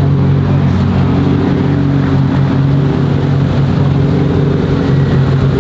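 A car engine idling steadily close by, holding one even low pitch.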